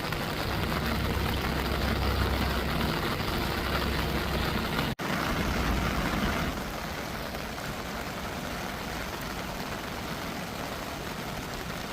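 City street traffic on a wet road: a motor vehicle's engine rumbles close by over a steady hiss of rain and wet tarmac, then drops away about six and a half seconds in. A split-second gap in the sound about five seconds in.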